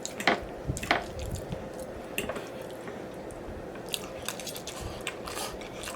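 Close-up wet mouth sounds of a person chewing and smacking food: irregular sharp clicks and squishy smacks, several each second.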